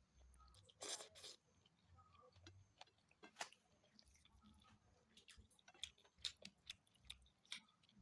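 A person chewing and biting food close to the microphone: faint, irregular wet clicks and crackles, with a louder crunch about a second in and another around three and a half seconds.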